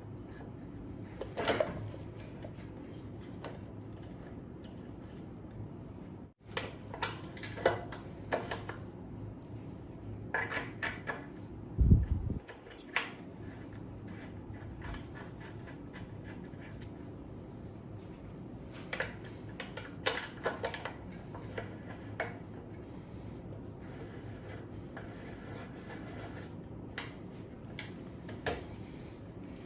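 Hands working on an e-scooter's parts and wiring: scattered clicks, taps and light clatter of plastic and metal, with one heavy thump about twelve seconds in.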